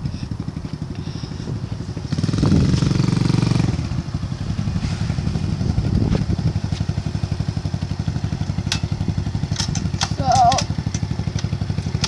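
Small dirt bike engine running at low speed with a steady pulsing note. It rises in revs about two seconds in and eases back about four seconds in.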